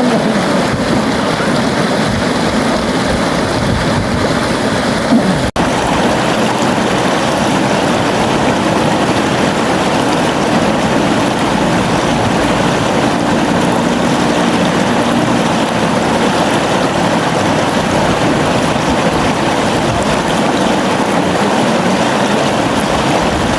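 River water flowing steadily, a continuous even rush. The sound breaks off for an instant about five and a half seconds in.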